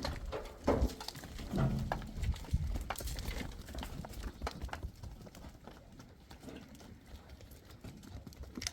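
Livestock moving about: scattered knocks and clicks, with a short call between about one and a half and two seconds in, fading off in the second half.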